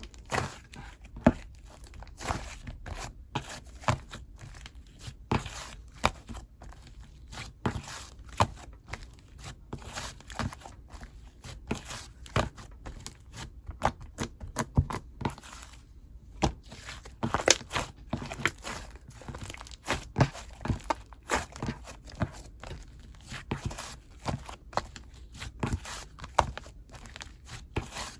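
Soft, fluffy clay slime being squished and pressed by hand, giving rapid, irregular sticky clicks and crackles.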